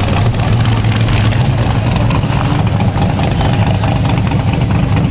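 Vintage race car engines running steadily, a continuous low engine sound with no breaks.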